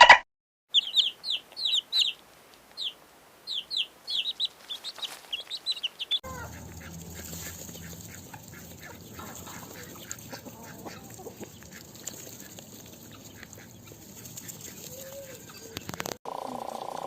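Domestic fowl calling: for about the first six seconds short high chirping calls come in quick runs, then a quieter stretch of clucking mixed with other farmyard noise.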